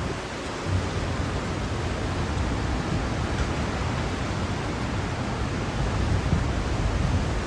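Steady rush of hurricane-force wind and rain, with gusts buffeting the microphone.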